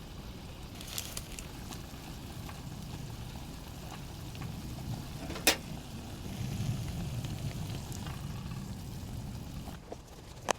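Water boiling in a pot on a camping stove, a steady low bubbling, with one sharp click about five and a half seconds in.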